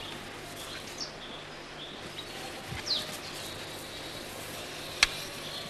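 Outdoor field ambience: a few short, high, falling bird chirps over a steady hiss, with one sharp knock about five seconds in.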